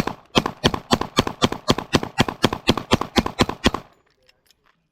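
A Canik semi-automatic pistol fired in rapid, steady succession, about five or six shots a second, for roughly twenty shots, stopping sharply just before 4 seconds in. The pistol cycles every round without a jam; the string is a test of whether its earlier malfunctions came from ammunition.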